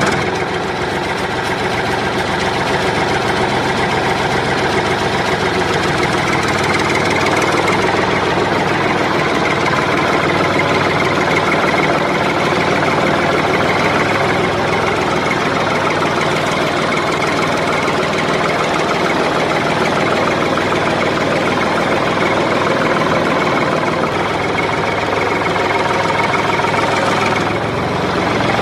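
A motor running steadily, a constant rattling hum that does not change in speed or loudness.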